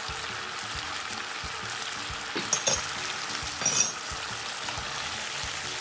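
Catfish in red curry sauce sizzling steadily in a frying pan over a gas flame while a wooden spatula stirs it, with two louder spatula strokes a little past halfway.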